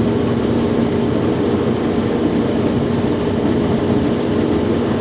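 Boat motor running steadily at gentle speed while it is being broken in, a constant hum over a steady rush of noise.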